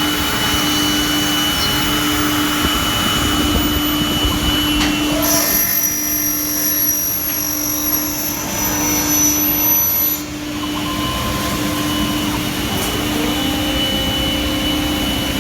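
Workshop machinery running with a steady hum and rushing noise; a high whine joins about five seconds in and cuts off about ten seconds in.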